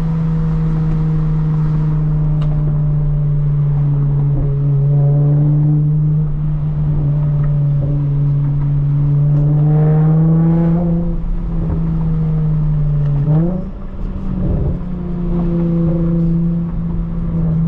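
Lexus IS350's 3.5-litre V6 running through a straight-through exhaust with no secondary cats and no muffler, making a steady low drone while cruising. The pitch climbs gradually about two-thirds of the way in, then dips and jumps sharply back up, like a gear change.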